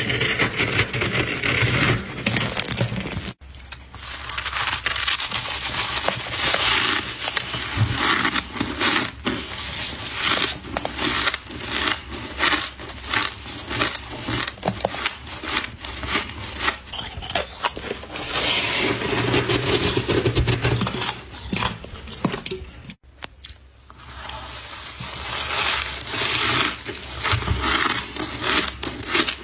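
Close-up crunching and chewing of fresh soft frost: a dense run of crisp, crackling crunches, broken off abruptly twice.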